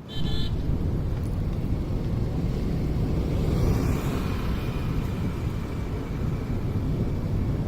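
Steady low outdoor rumble with no clear events, and a brief high chirp right at the start.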